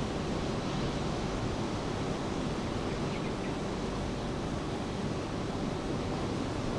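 Steady rain together with ocean surf, a continuous even hiss and wash with no separate events.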